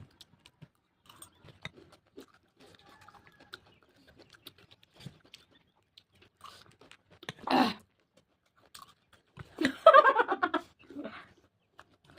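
Close-up chewing with small wet mouth clicks while eating. A brief vocal sound comes about halfway through, and a longer burst of voice, laughter or speech, comes near the end.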